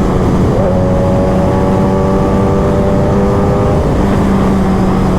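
Kawasaki ZX-10R inline-four with a Master Racing aftermarket exhaust, running on the move at a nearly steady engine speed, with a small change in pitch about half a second in.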